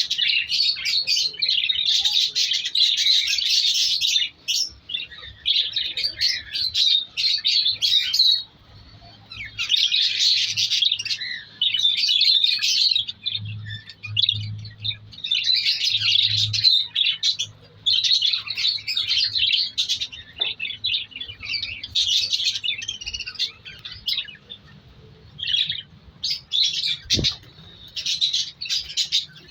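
Budgerigars chattering and chirping, a dense run of quick high warbled notes that comes in bouts of a second or two with short pauses between.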